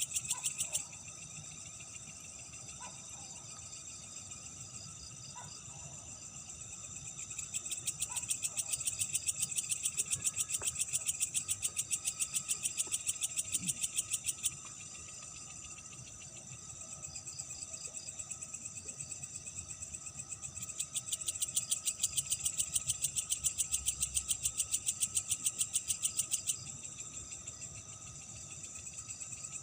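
Night insects trilling: rapid, evenly pulsed high-pitched trills in bouts of several seconds, stopping and starting again, over a steady fainter insect chorus.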